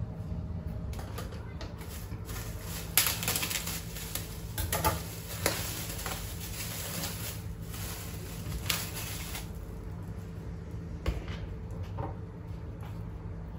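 Scattered light knocks and clicks of objects being handled, the loudest about three seconds in, over a steady low hum.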